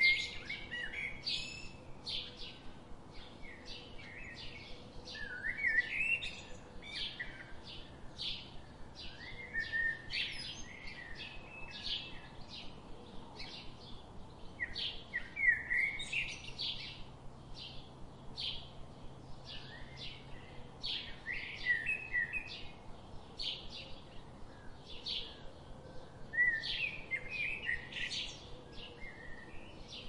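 Small songbirds chirping: a steady run of short, high chirps, two or three a second, broken every few seconds by a burst of lower, warbling notes.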